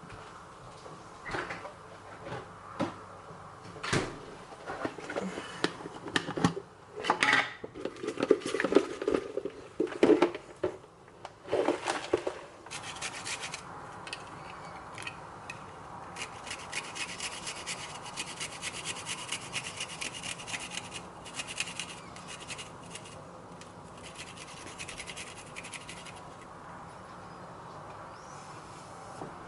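Kitchen food-prep sounds: irregular clatters, knocks and scraping strokes, then after about twelve seconds a steady rasping with fast fine ticking, strongest about half-way through.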